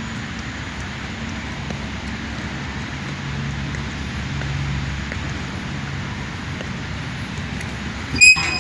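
Hino 500 truck's six-cylinder diesel engine running at a steady idle, a low even rumble. Near the end a sudden loud, high-pitched metallic squeal cuts in.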